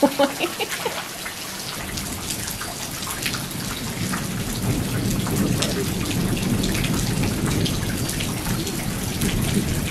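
Heavy rain pouring onto a paved patio and the trees around it, a steady hiss. From about two seconds in a low rumble builds under the rain and stays.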